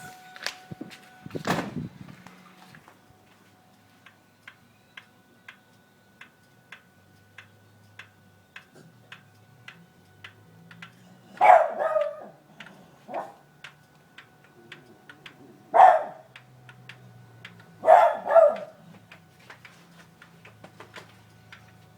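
Steady ticking, about two sharp ticks a second, from a 2000 Ford Mustang 3.8 V6 after its engine is switched off: the after-shutdown noise the owner cannot explain, which fades after a while. A single loud knock comes about a second and a half in, and a dog barks several times in the middle, louder than the ticking.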